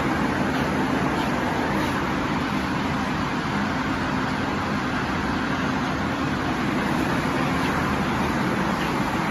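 Steady rumbling din of a busy railway station platform, with a constant low hum running under it.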